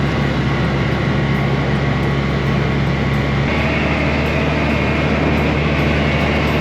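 Suzuki 4 hp outboard motor running steadily under way. Its note shifts about three and a half seconds in.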